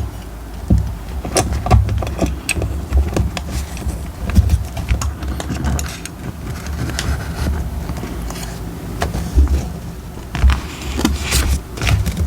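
Journaling supplies handled on a desk: paper rustling, with irregular clicks, taps and light scrapes over low thumps.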